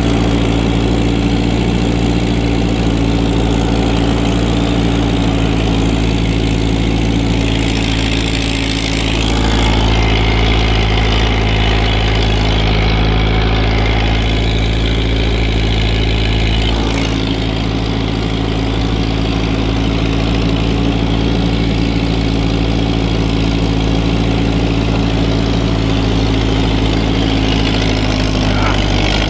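Tractor engine running steadily under load while plowing snow, pulling a little harder from about nine seconds in to about seventeen seconds in, then easing back.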